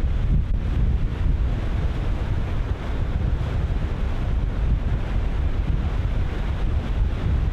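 Ocean surf breaking continuously on a beach, with strong wind buffeting the microphone as a steady low rumble.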